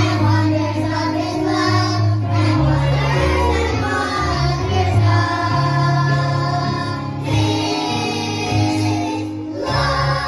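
A song sung by voices, with instrumental accompaniment and sustained bass notes that change every second or two.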